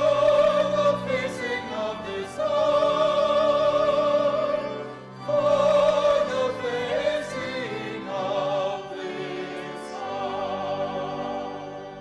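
Classical-style singing in long held phrases with strong vibrato, a sacred choral or solo vocal piece.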